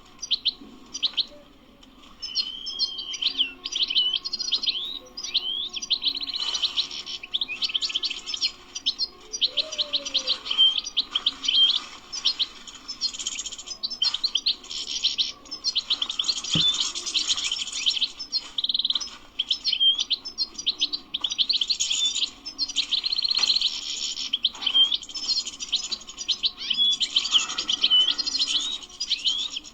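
European goldfinch singing: a fast, continuous twittering of rapid chirps and short trills, with a brief pause near the start.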